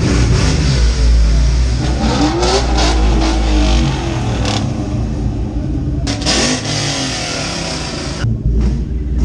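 Ford Mustang engine being revved hard, its pitch climbing and dropping several times over a loud, steady exhaust note.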